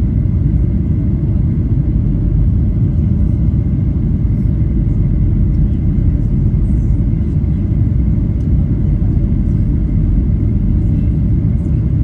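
Steady cabin noise of a Qantas Boeing 737 in flight on approach: the low rumble of engines and airflow, with a faint steady hum over it.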